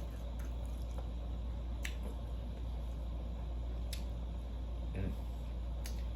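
Eating sounds: a few sharp clicks and a short wet smack about five seconds in, as someone eats a plate of fish, over a steady low hum.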